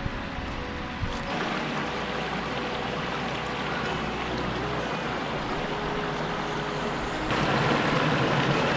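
Running stream: a steady rush of flowing water that gets louder about a second in and again near the end.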